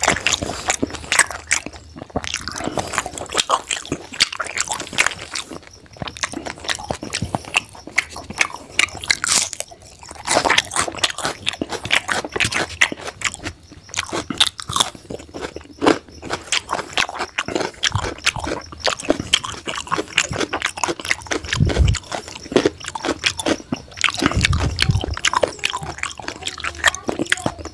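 Close-up chewing and wet mouth sounds of a person eating rice and curry by hand, with crunching bites of raw carrot about halfway through. A couple of low bumps come near the end.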